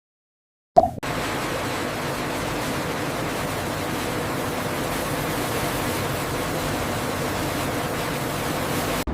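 A short click, then a steady rushing hiss with a faint hum in it that holds level and cuts off abruptly near the end.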